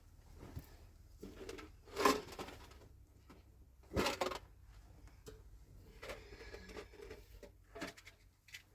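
Scattered handling noises: short rustles and soft knocks, the loudest about two seconds and four seconds in.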